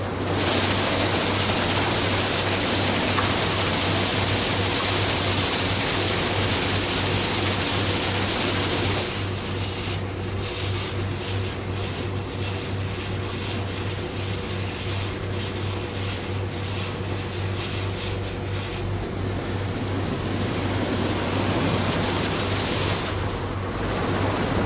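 Daifuku Fabrica automatic car wash at work, heard from inside the car: water spraying hard onto the body for the first nine seconds or so, then a weaker, rapidly pulsing washing noise, and a strong spray again near the end, all over a steady machine hum.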